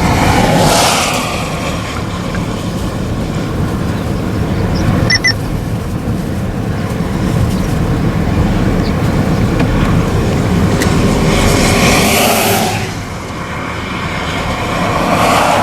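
Road noise from a vehicle driving on a highway: a steady rumble and tyre hiss, with other vehicles whooshing past near the start, about twelve seconds in and again at the end. A short electronic beep sounds about five seconds in.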